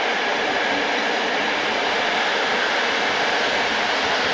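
Passenger train coaches rolling past at speed: a loud, steady rush of wheels on rails.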